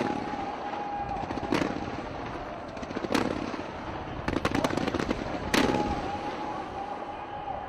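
Aerial fireworks bursting: sharp bangs roughly every second and a half, a quick run of rapid cracks about four and a half seconds in, and crackling between them, with a steady tone underneath at times.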